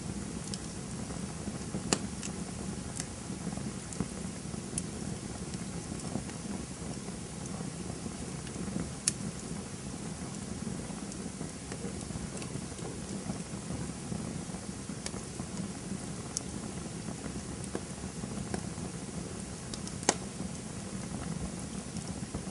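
Campfire crackling: a steady low rush of burning, dotted with small ticks and a few louder, sharp pops spread out over the stretch.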